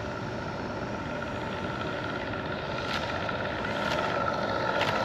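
Electric RC FlightLine F4U Corsair on final approach, its motor, propeller and onboard engine-sound speaker running steadily at low power. The sound grows gradually louder as the plane comes in.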